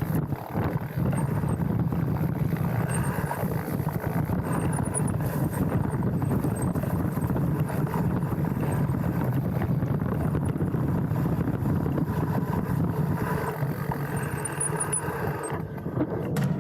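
Specialized Stumpjumper mountain bike rolling down a dirt trail: a steady noise of tyres running over the damp dirt and the bike's frame and parts rattling, picked up close by a handlebar-mounted camera.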